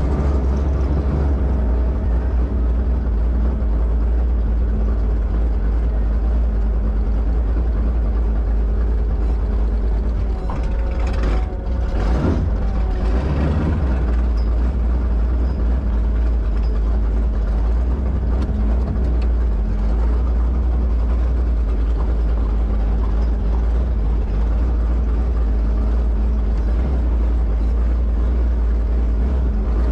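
A 1972 Plymouth Duster's 408 cubic-inch V8 idling steadily. About eleven seconds in, a short sweeping sound passes over the idle.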